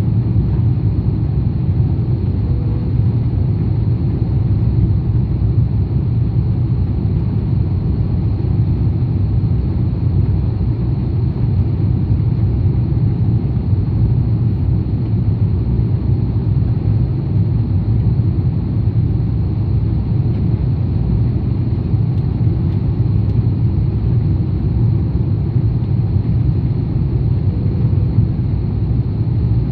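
Steady, loud low rumble of an airliner cabin in flight, unchanging throughout.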